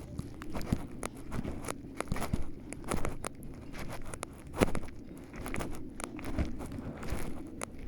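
Footsteps crunching over dry forest litter, with irregular crackles and snaps between louder steps about once a second.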